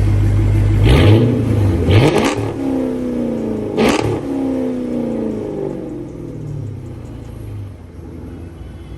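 2006 Dodge Charger R/T's 5.7-litre HEMI V8, straight-piped with the catalytic converters still on, idling and revved three quick times, about one, two and four seconds in. After each rev the pitch falls back down to a steady idle.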